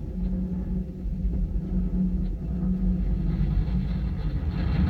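Atlas V rocket's RD-180 main engine and solid rocket boosters burning in flight: a steady deep rumble, with a rushing hiss that grows from about three seconds in.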